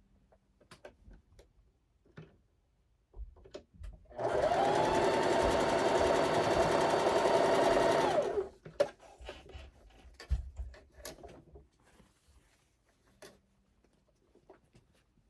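Electric sewing machine stitching one seam for about four seconds, its motor speeding up at the start, holding a steady speed, then winding down and stopping; it is sewing the diagonal corner-to-corner seam of a quilt block. Light clicks and fabric handling come before and after the run.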